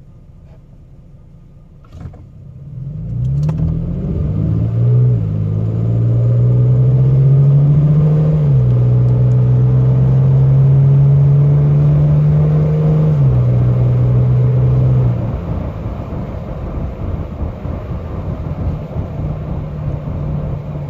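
Toyota Tacoma's 4.0-litre V6 with a Gibson cat-back exhaust heard from inside the cab, pulling away at part throttle. The exhaust drone rises in pitch and drops at each upshift, about five, eight and thirteen seconds in. After about fifteen seconds it settles to a quieter cruise.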